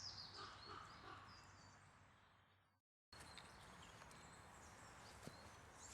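Near silence: faint outdoor background hiss that fades out to dead silence at an edit cut about three seconds in, then resumes faintly.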